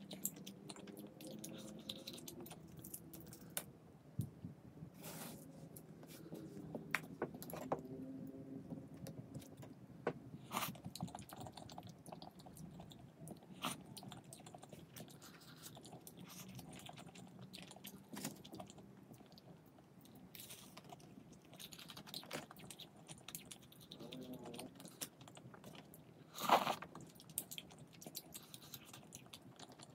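Close-up eating sounds of a person chewing and biting food, with scattered crunches and clicks and one louder burst near the end.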